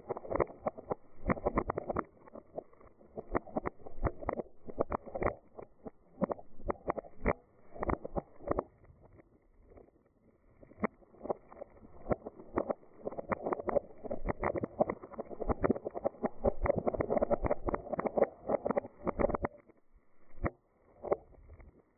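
Dried beans rolling and rattling in a container, many small clicks that swell and fade in slow waves like surf, then die away near the end.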